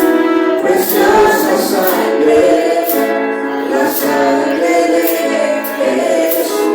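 Church worship music: a congregation or choir singing a praise song with band accompaniment, and a shaker or tambourine keeping a steady beat.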